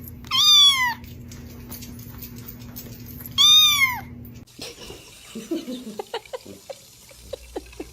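A cat meowing twice, two loud high-pitched calls about three seconds apart, each rising then falling, over a steady hum. The hum stops partway through, and a quieter stretch with scattered light clicks follows.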